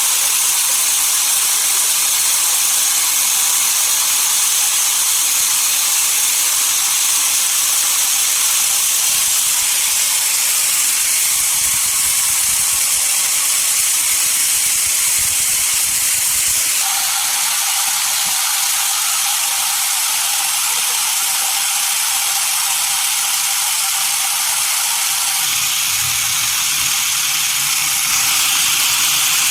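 Sawmill saw running through a dense desert redwood log, a steady loud hiss of cutting. About a third of the way through, the sound changes and a steady mid-pitched tone joins the noise.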